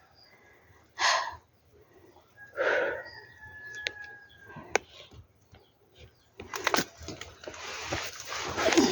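A rooster crowing, its loudest part about two and a half seconds in, among a few sharp clicks; a rustling noise takes over in the last couple of seconds.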